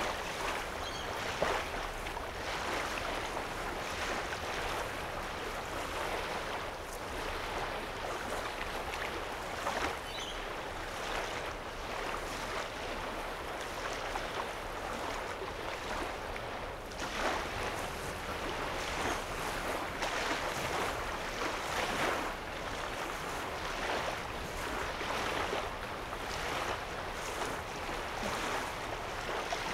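Small lake waves lapping steadily against the shore, an irregular run of soft splashes over a continuous wash of water, with a faint low rumble underneath.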